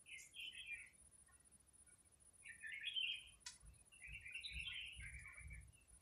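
Birds chirping in three quick twittering bursts, the last and longest about four seconds in, with a single sharp click between the second and third bursts and a low rumble under the last one.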